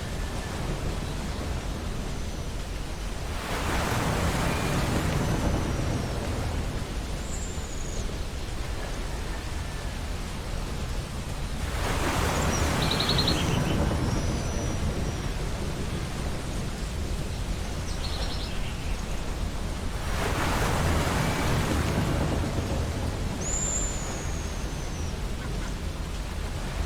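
Ocean surf on a beach: a steady wash with three waves swelling and breaking about eight seconds apart. Seagulls call over it, a few short gliding cries and some quick chattering calls.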